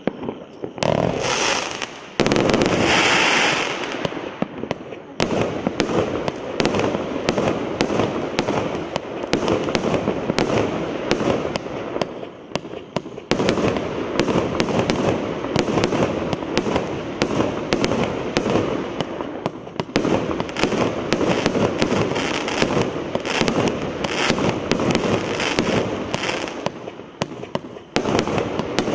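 Rublevsky EC300 firework battery firing its shots in quick succession: a steady string of sharp launch pops and bangs with crackle, several a second. Hissing bursts come in the first few seconds, and the firing eases off briefly twice before picking up again.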